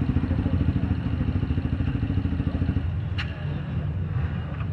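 Motorcycle-type engine of a tuned 200cc bore-up Mahindra Rodeo scooter running with a strong pulsing note, which drops lower and quieter about three seconds in. A single sharp click comes just after the drop.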